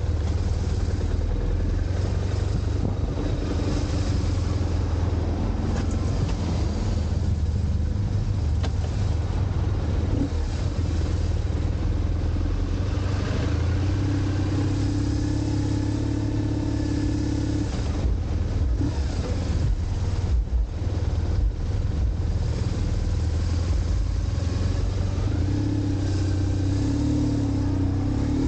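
BMW R1150GS Adventure's boxer-twin engine running while the bike rides through traffic, with wind and road noise and the sound of surrounding cars. An engine note rises in pitch near the end.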